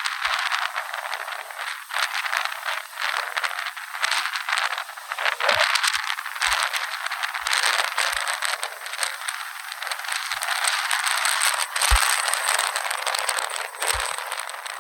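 Strong Santa Ana wind gusting, a rushing hiss that swells and eases, thick with fast rattling and crackling of things shaken by it, and a few brief knocks.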